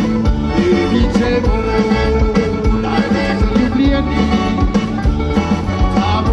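A live band playing Balkan-influenced pop with drums and bass, and a man singing over it.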